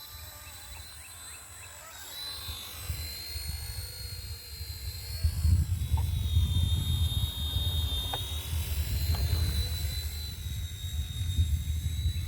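RC helicopter's motor and rotors whining steadily in flight, the pitch drifting slightly up and down. Wind buffeting the microphone grows louder about five seconds in.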